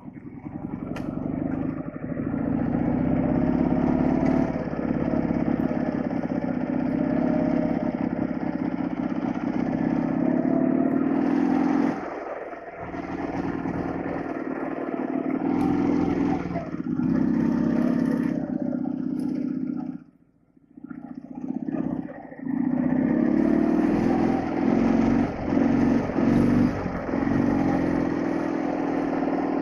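Flat-twin Soviet motorcycle engine running under way, its note easing and rising with the throttle. It drops away briefly about two-thirds of the way in, then comes back.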